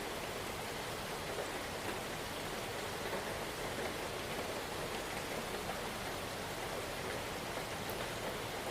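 Steady, even rainfall: a dense wash of many small drops with no single loud hit.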